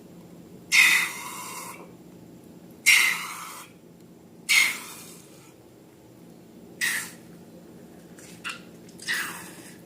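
Slime being squeezed and worked by hand: six short hissing squishes, each starting sharply and fading away, the first three the longest and loudest.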